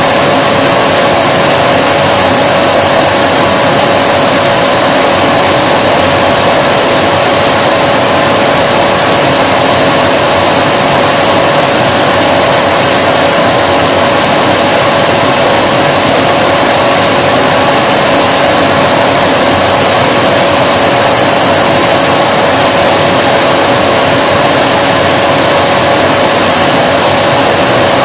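Vacuum cleaner motor running steadily, a loud even rush of air with a constant hum.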